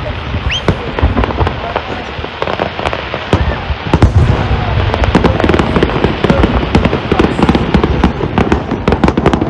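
A fireworks display: deep booming bursts and many sharp bangs, turning into dense crackling from about seven seconds in.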